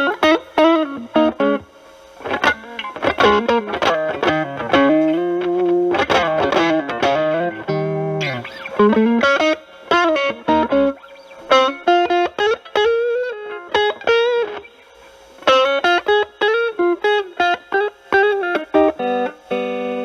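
Electric guitar, a Stratocaster with single-coil pickups, playing bluesy lead phrases of single notes with string bends and vibrato, with short gaps between phrases. It runs through a Proco RAT2 distortion stacked with an Ibanez TS9 Tube Screamer into a Marshall Valvestate amp, with the guitar's volume knob rolled back so the distortion is cleaned up to a lighter crunch.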